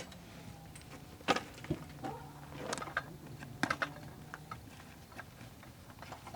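Scattered light clicks and knocks, several in quick succession about a second and a half apart, over a faint steady low hum.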